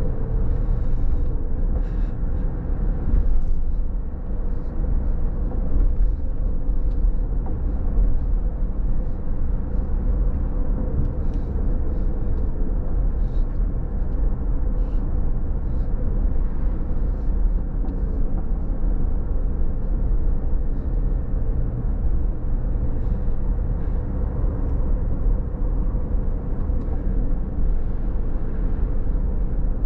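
Car being driven on a rain-wet road: a steady low rumble of tyres and engine, with a faint engine hum and a few faint, scattered ticks.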